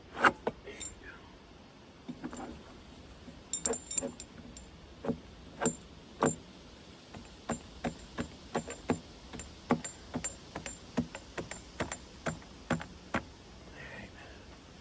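Hand tools working on a bolt in a sawmill's metal husk: a series of sharp metal clicks and taps, scattered at first, then a steady run of about two a second through the second half.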